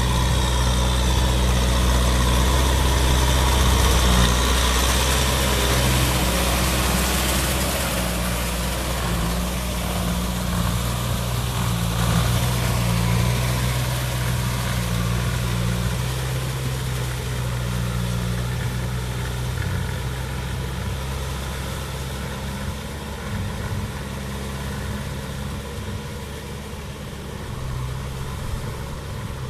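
Kubota M6040 tractor's diesel engine running steadily, slowly getting quieter through the second half.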